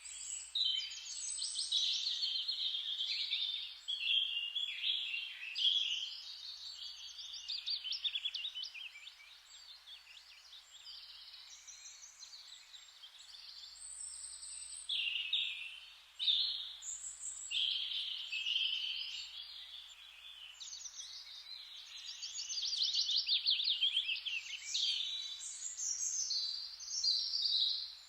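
Several songbirds singing at once in a dense, overlapping chorus of chirps and rapid trills, thinning out for a few seconds midway before filling in again.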